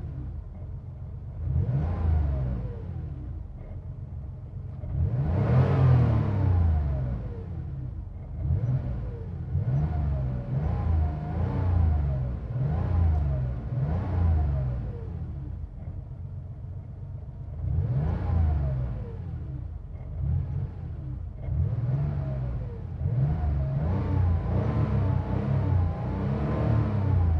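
1990 Porsche 911's air-cooled flat-six being revved repeatedly: the engine note rises and falls in a series of throttle blips, some single and some in quick runs of several, settling back toward idle between them.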